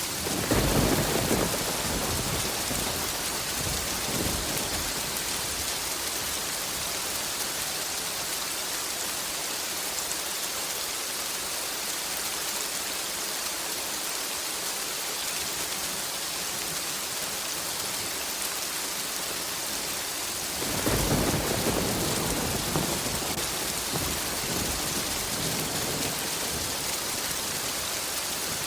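Steady rain hiss with two rolls of thunder. One rumble comes right at the start and fades over a couple of seconds with a smaller after-rumble; a second rolls in about two-thirds of the way through and lasts a few seconds.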